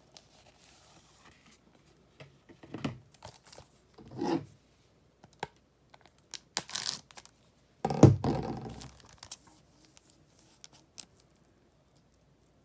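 Blu-ray cases and cardboard slipcovers being handled: scattered scrapes and rustles, a short papery rustle, and a thud about eight seconds in.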